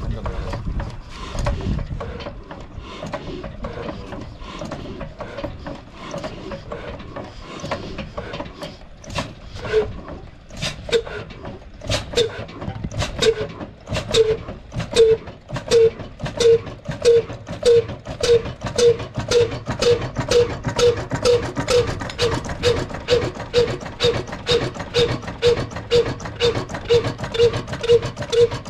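Old slow-speed diesel oil engine of the Ruston type being started. Irregular knocking and clatter while the flywheel is turned by hand, then about ten seconds in the engine catches and fires in a regular thudding beat that quickens and settles at about two beats a second.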